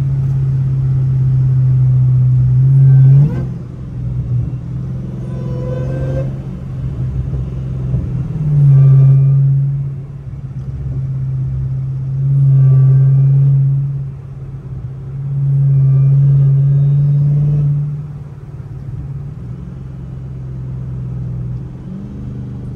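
Hellcat supercharged V8 in a Chrysler sedan, heard from inside the cabin while driving: a steady low exhaust drone that swells loud four times as the throttle is opened, each surge lasting one to two seconds.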